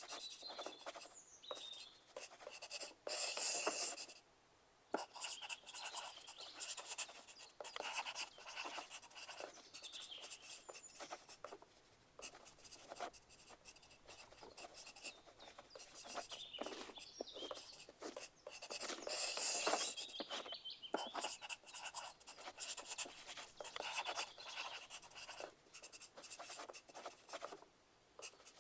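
Pencil writing on paper: continuous scratchy strokes broken by short pauses, with louder bursts of scribbling about three seconds in and again near twenty seconds.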